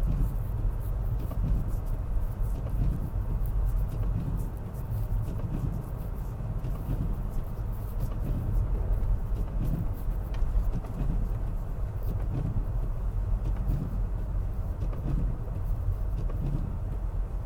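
Steady low rumble of a car being driven: engine and road noise, with faint scattered ticks throughout.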